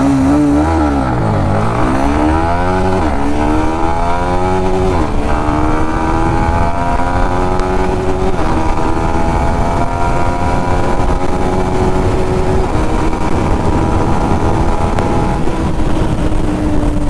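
Yamaha MT-15's 155 cc single-cylinder engine at full throttle through the gears: the pitch climbs and drops back at each upshift, three in quick succession over the first five seconds and two more further apart, then holds a steady high note that eases slightly near the end. Heavy wind rush over the helmet microphone underneath.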